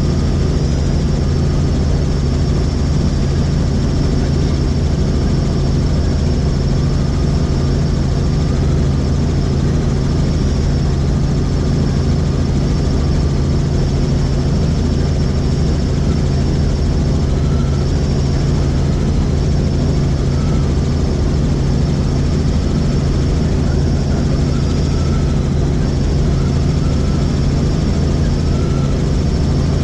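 Helicopter in flight, its rotor and engine noise loud and steady.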